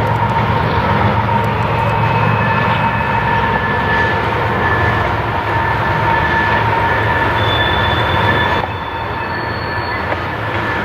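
Freight train rolling past: a steady rumble of railcars on the rails, with thin high-pitched squeals from the wheels. The sound drops a little and loses its highest part about nine seconds in.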